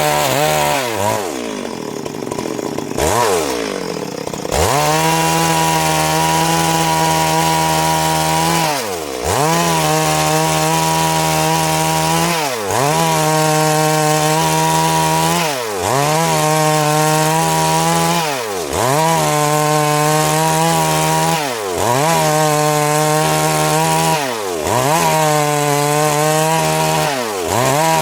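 Stihl MS 382 two-stroke chainsaw cutting Siris wood lengthwise into boards. Its engine note drops about a second in, revs back up a few seconds later, then sags briefly and recovers about every three seconds as the chain works through the cut.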